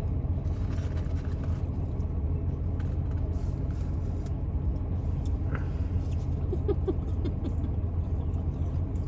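Car engine idling, a steady low hum heard from inside the cabin, with faint small clicks and rustles scattered through it.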